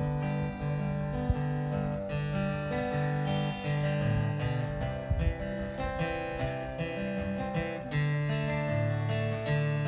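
Acoustic guitar strummed through a chord progression in an instrumental break of a country-folk song, with no singing.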